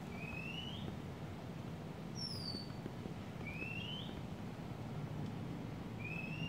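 A bird calling outdoors: three short upslurred whistles a few seconds apart, with a single higher, down-slurred note between the first two, over a steady low background hum.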